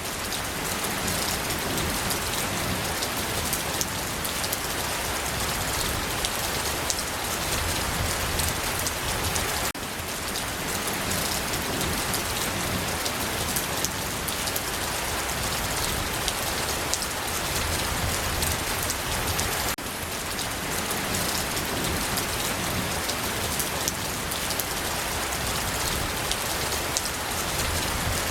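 Steady rain falling: an even hiss with a dense patter of drops, briefly dipping in level about every ten seconds.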